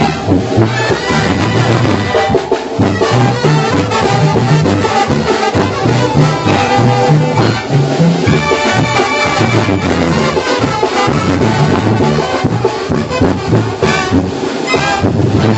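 Mexican banda brass band playing an instrumental introduction: brass with a driving, repeating bass line and percussion.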